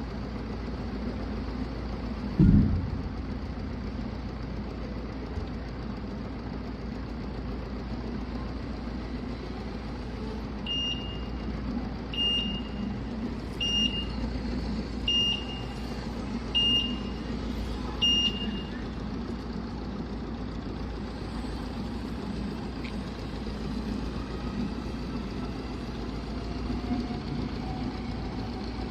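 TOSH CPD10 electric forklift's warning buzzer giving six short high beeps about a second and a half apart, as when the truck travels in reverse, over a steady low hum. A single heavy thump sounds a couple of seconds in.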